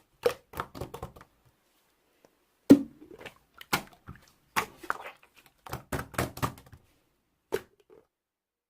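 Slime being played with by hand, making irregular short sharp clicks in small clusters, with a pause of about a second near the start and quiet near the end.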